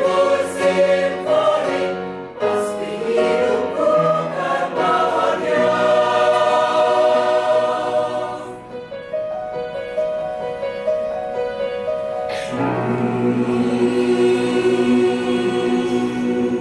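Mixed choir singing sustained chords. About halfway through it thins to a quieter passage with fewer, higher voices, then the low voices come back in with a fuller chord.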